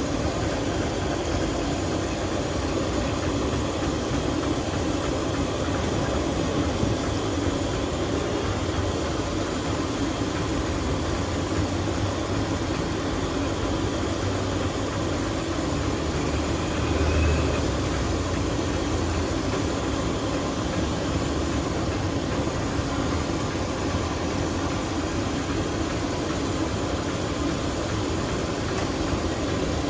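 Steady low rumbling noise with a mechanical, engine-like character, swelling briefly about seventeen seconds in.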